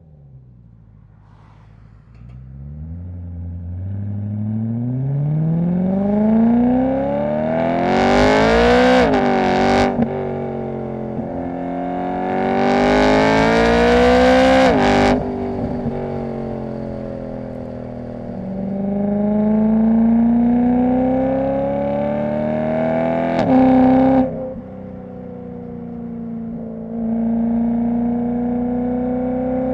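BMW E90 M3's S65 V8 with an aftermarket exhaust, pulling hard through the gears. Twice the engine note climbs steeply and then drops suddenly at the upshift. After that it cruises with the note rising gently, with one short rev and drop near the end.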